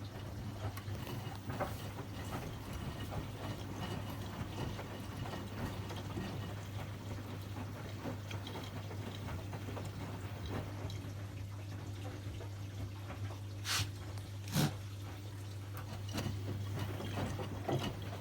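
Washing machines running a rinse, water splashing and filling in the drum over a steady low hum, with two short clicks about three-quarters of the way through.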